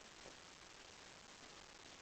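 Near silence: steady low hiss of room tone.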